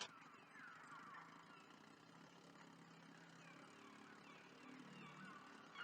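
Faint gull cries, many short falling calls in quick succession, over the low steady hum of a small boat's outboard motor.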